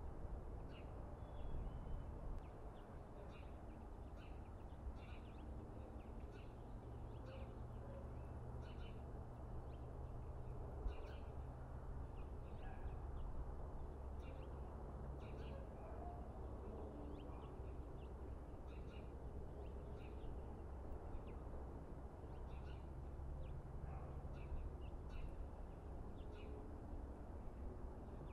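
Small birds chirping in short, scattered calls over a low, steady outdoor rumble.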